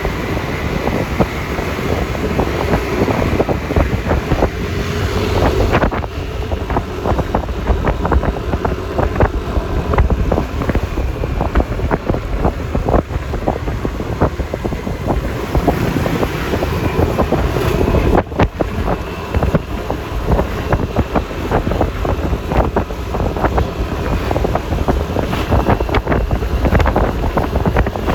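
Wind buffeting the microphone over the engine and road noise of a Yamaha Lexi LX 155 scooter under way. The noise is steady and loud, with constant gusty crackle.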